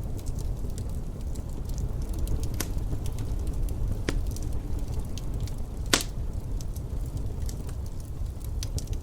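Wood fire crackling in a fireplace: scattered sharp pops and snaps over a steady low rumble, with one louder pop about six seconds in.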